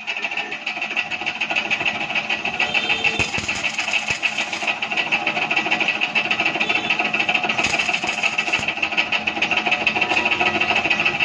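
Paint sprayer running continuously with a steady, fast rattling buzz while the rim is being sprayed.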